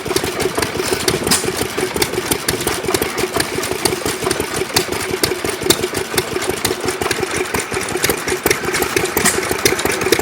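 Antique hit-and-miss gas engine running steadily, firing on a fast, even beat of sharp clicks with no pauses.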